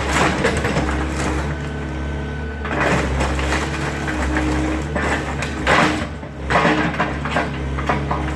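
Excavator engine running steadily while the machine breaks up a garage, with several crashes and crunches of breaking debris near the start, about three seconds in, and again between five and seven and a half seconds.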